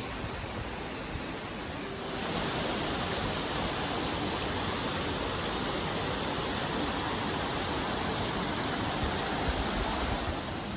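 Waterfall: falling water rushing steadily, growing louder and brighter about two seconds in.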